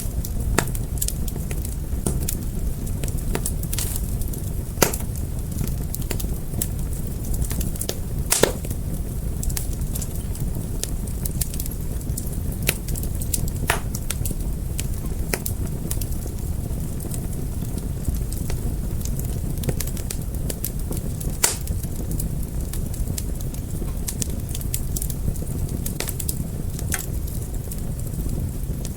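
Fire crackling: irregular sharp pops and snaps over a steady low rumble, with a few louder pops scattered through.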